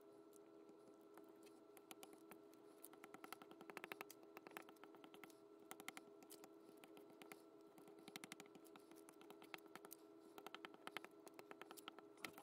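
Faint paper-crafting handling: clusters of light quick clicks and taps from paper and tools being worked at a table, over a steady low electrical hum.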